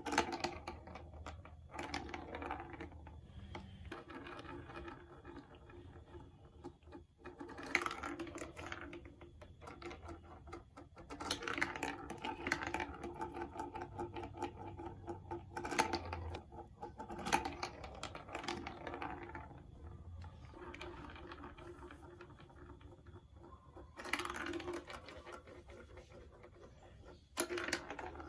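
Marbles rolling and clattering down a plastic marble run: a continuous fast rattle of small clicks, with a steady ring from the track and several louder bursts of clatter.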